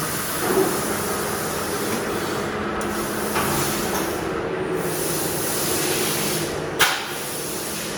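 Metal lathe running with a steady mechanical hum and hiss. There is a single sharp clack just before the end, after which the running noise drops a little.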